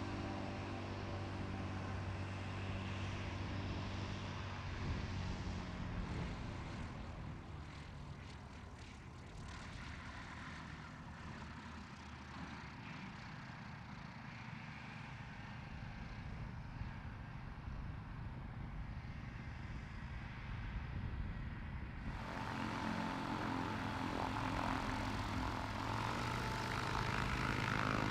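Light propeller aircraft's piston engine running, its drone fading away over the first several seconds and staying faint. About three quarters of the way through it cuts abruptly to a louder, nearer propeller engine.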